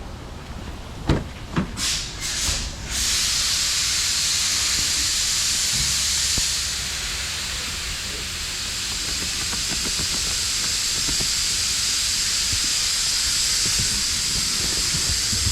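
A few knocks, then a loud steady hiss that starts about three seconds in and shifts in tone around six seconds in.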